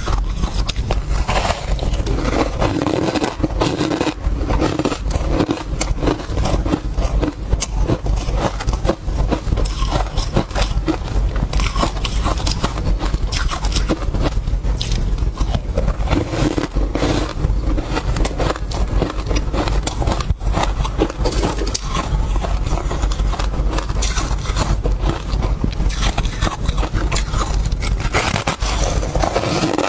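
Close-miked crunching of refrozen tartary buckwheat tea ice: a dense, unbroken run of cracks and crunches.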